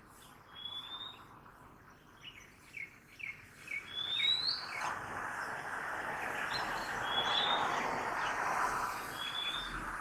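Birds singing: short rising whistled notes every couple of seconds, with a run of quick chirps in between, over a steady hum of city traffic that grows louder about four seconds in.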